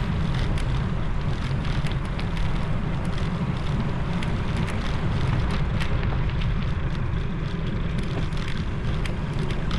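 Steady wind rumble on the microphone during a bicycle ride, with faint ticks and rattles from the moving bike.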